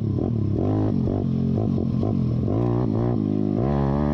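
YCF pit bike's single-cylinder four-stroke engine, spark arrestor removed, being ridden with the throttle worked on and off, so the engine note rises and falls repeatedly.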